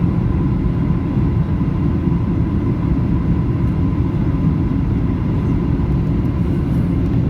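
Steady cabin roar inside a Boeing 737-800 on approach, its CFM56-7B engines and the airflow over the fuselage, with a faint steady whine above the low rumble.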